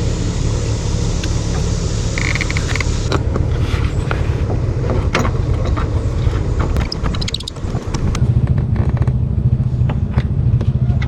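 A motor running steadily with a low hum, dropping off briefly about seven seconds in and then picking up again, with scattered clicks and knocks over it.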